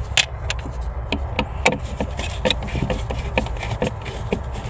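Hands working at the wire terminal on a refrigerator freezer fan motor: irregular clicks, taps and rubbing of plastic and metal parts as the terminal is pried at, over a steady low hum.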